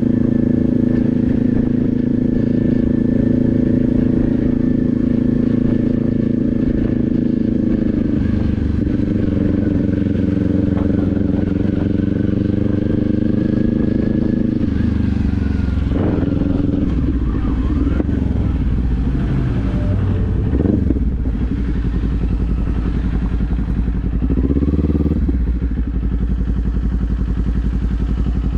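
Kawasaki Z400's parallel-twin engine riding along: a steady cruising note for about half the time, then the engine note drops as the throttle eases off and wavers before rising again near the end. Low wind rumble on the microphone runs underneath.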